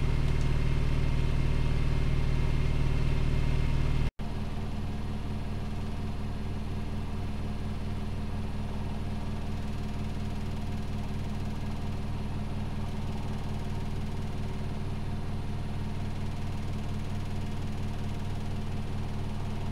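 Privileg Multispar 5110 washing machine spinning, a steady hum. About four seconds in, the sound drops out for an instant and then carries on a little quieter.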